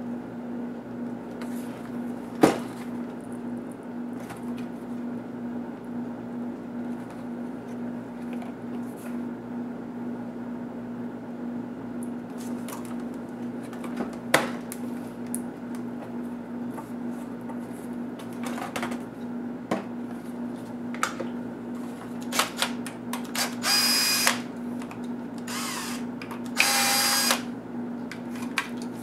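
Electric screwdriver whirring in two short bursts near the end while backing out laptop screws, with scattered sharp clicks and taps of tools and parts against the plastic case over a steady hum.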